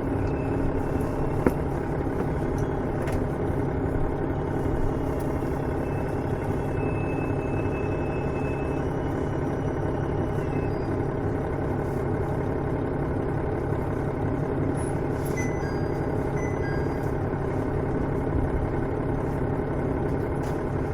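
KiHa 110 series diesel railcar's engine idling steadily, heard inside the car, with the train standing at the terminus. A single small click comes about a second and a half in.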